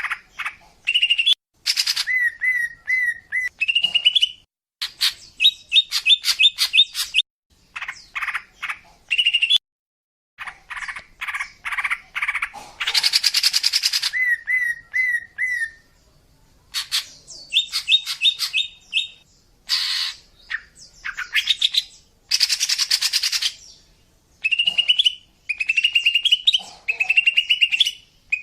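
Female greater green leafbird (cucak ijo) singing: a fast, varied run of chirps, short repeated whistled notes and harsh buzzy phrases, broken by brief pauses. It is the female's call, used to lure in males.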